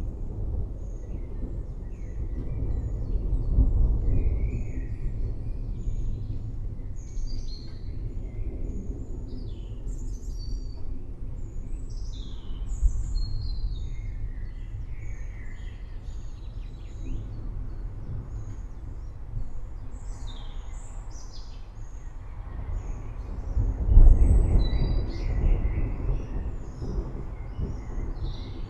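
Forest birds chirping and calling over low rumbles of distant thunder, which swell about four seconds in and again, louder, about twenty-four seconds in.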